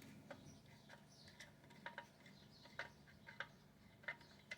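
Faint, scattered light clicks, about seven in all, of a screw and small metal parts being handled as the screw is pulled back out, over a faint steady hum.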